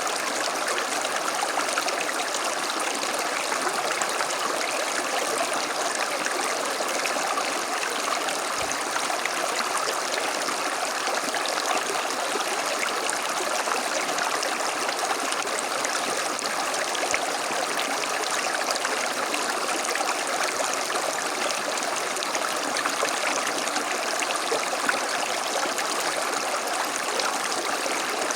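A small stream flowing over stones, a steady rushing and gurgling of running water.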